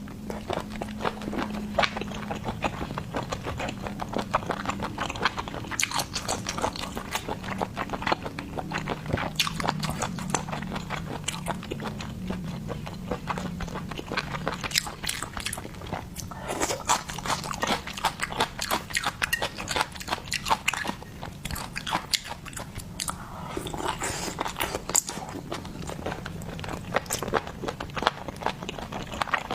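Close-miked chewing and biting of seafood: many irregular wet smacks and crunchy clicks from the mouth, coming and going in clusters.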